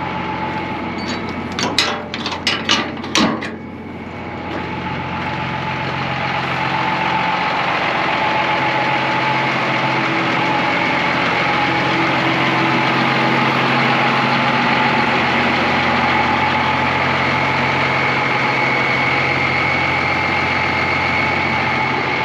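Deuce-and-a-half military truck's turbocharged diesel engine running steadily with the high whistle of its Schwitzer Whistler turbocharger, growing louder a few seconds in. A few sharp clicks come about two seconds in.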